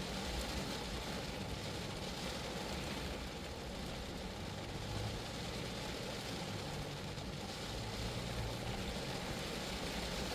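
Steady rain falling on a Geo Metro's body and windows, an even patter with a low hum beneath it that swells for a few seconds midway.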